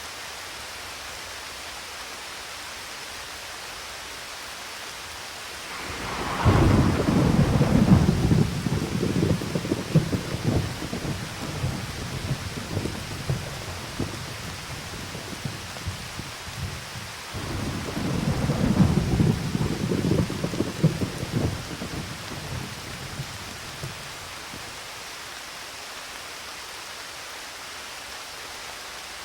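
Steady rain with two rolls of thunder: the first cracks in suddenly about six seconds in and rumbles for around ten seconds, and a second, softer roll follows and fades out.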